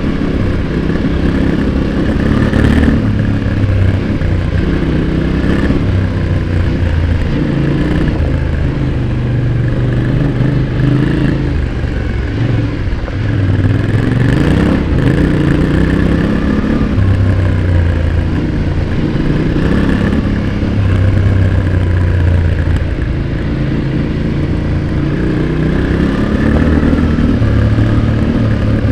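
Yamaha Ténéré 700's parallel-twin engine, heard close at the exhaust, revving up and falling back again and again as the throttle is opened and closed and gears change under hard riding.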